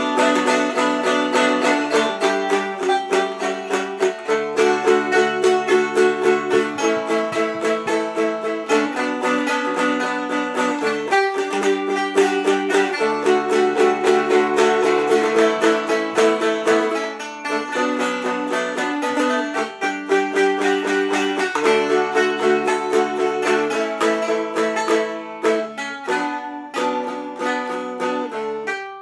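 Two Seagull Merlin dulcimers played together in a free improvisation, with quick plucked notes over held lower notes that change every few seconds. The picking thins out and grows sparser near the end.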